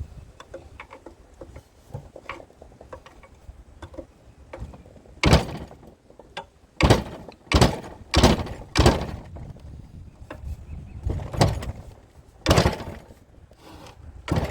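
A crescent wrench used as a hammer strikes metal parts of a seized pump, about seven hard blows in irregular groups over several seconds. Lighter clinks and handling noise come before the first blow.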